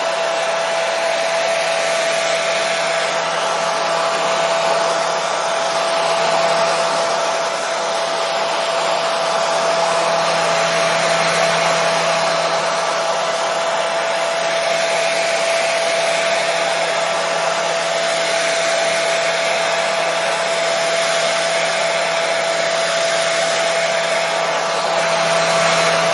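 Hair dryer running steadily: a continuous rush of blown air with a steady motor whine in it.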